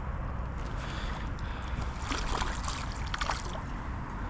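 Water lapping and trickling around a kayak, with a cluster of light clicks and knocks in the middle.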